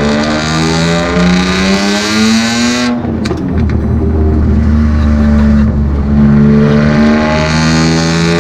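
BMW E46 M3's S54 straight-six with the rear muffler removed, its straight-piped exhaust loud as the car accelerates: the pitch climbs, drops at a gear change about three seconds in, runs low for a few seconds, then climbs again.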